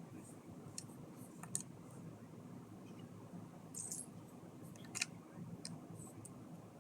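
Small plastic LEGO pieces clicking and clattering as they are handled and fitted together, a handful of scattered light clicks with the sharpest about five seconds in.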